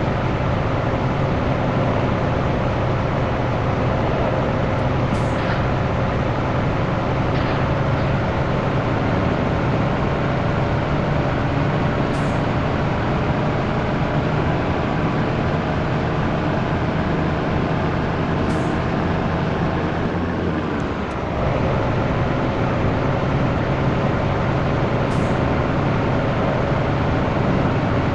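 Scania T113 truck's diesel engine running steadily while driving, its note drifting slowly. The note dips briefly and picks up again about two-thirds of the way through. A few faint short ticks are scattered across it.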